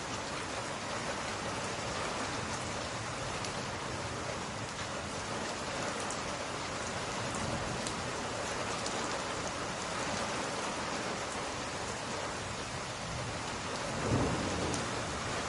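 Steady rain falling on window glass, with a few faint crackles from a wood fire. Near the end a brief low rumble swells up and fades.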